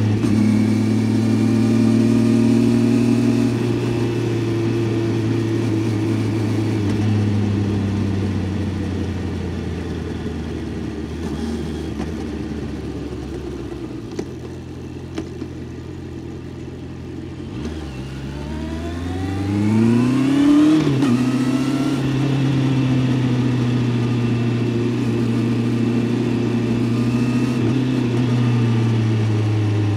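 Honda CBR650F's inline-four engine on the move: steady revs at first, then easing off and slowing with the sound dropping for several seconds. About eighteen seconds in it revs up hard in a steep rising whine, drops sharply and settles back into steady cruising.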